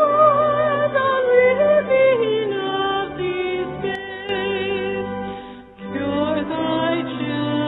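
A congregation singing a hymn with instrumental accompaniment. The sound drops briefly about five and a half seconds in, a breath between lines, before the next line begins.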